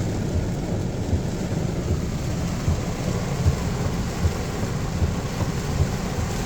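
Heavy rain pelting a car, with a low steady road and engine rumble heard from inside the cabin.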